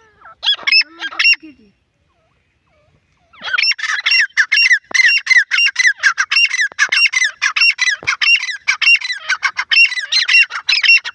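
Grey francolin calling: a few short notes, a brief pause, then a long, fast run of loud repeated rising notes, several a second.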